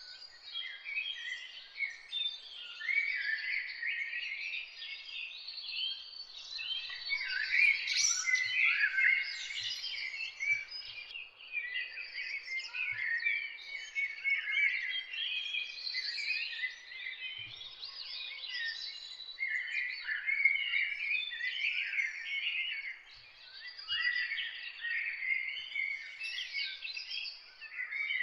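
Several birds singing and chirping at once, a dense, continuous chorus of quick high chirps and warbles over a faint background hiss.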